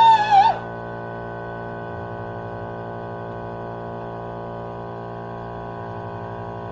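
A wavering, gliding electronic tone cuts off about half a second in. It leaves a steady electrical hum with many even overtones.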